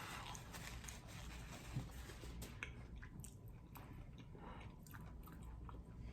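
Faint close-miked chewing and biting of king crab meat in garlic butter sauce, with scattered small wet clicks and squishes.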